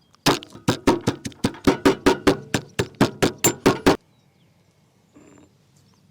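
A rapid run of about twenty sharp chopping knocks on wood, about five a second, stopping abruptly about four seconds in.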